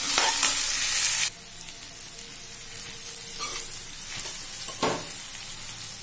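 Chopped okra sizzling in hot oil in a kadai while being stirred with a metal ladle, which scrapes against the pan a few times. The loud sizzle drops off sharply about a second in, leaving a quieter frying hiss.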